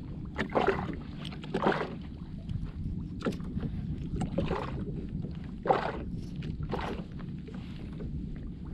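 Steady wind and water noise on a kayak at sea, broken by a few short, sharp sounds, the loudest about six seconds in.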